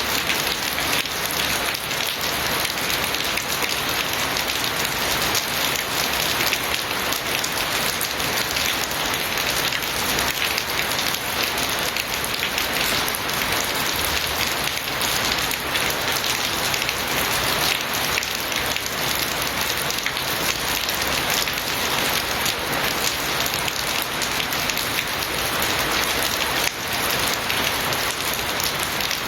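Steady, dense rain falling and pattering on a surface.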